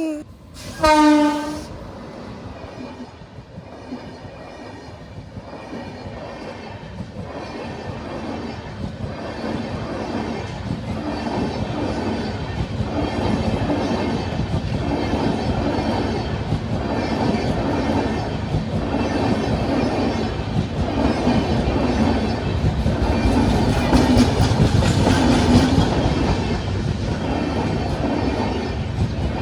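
A short train horn blast about a second in. Then an express train runs past, its wheels clattering rhythmically over the rail joints, growing steadily louder as it comes by.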